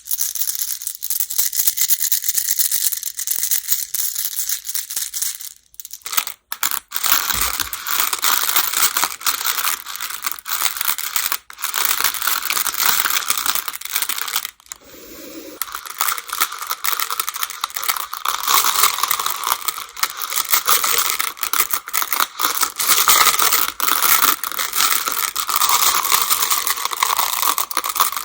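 Go (baduk) stones clattering against one another in a dense, continuous rattle of small clicks, with brief pauses about six seconds in and again near the middle.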